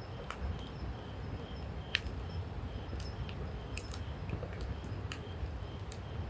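Campfire crackling: burning wood giving sharp, irregular snaps and pops, the loudest about two seconds in, over a low steady hiss. A faint high chirp repeats about twice a second behind it.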